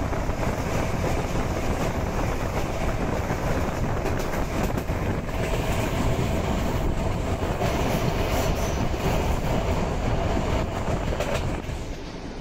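Passenger train running on the rails, heard from inside a carriage: a steady rumble of wheels with a faint hum, getting quieter near the end.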